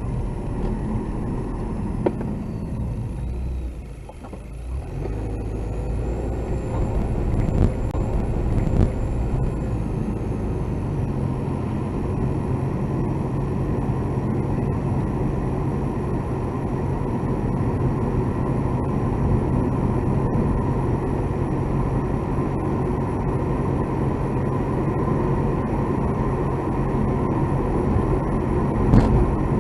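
Car cabin sound while driving: steady engine and road rumble with a thin, steady tone running through it, dipping briefly about four seconds in.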